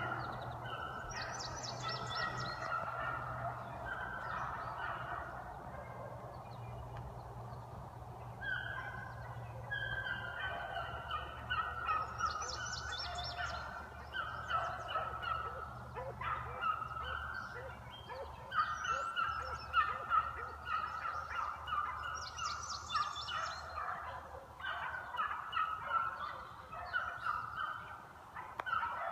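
A pack of beagles baying on a scent trail, many short overlapping calls repeating without a break.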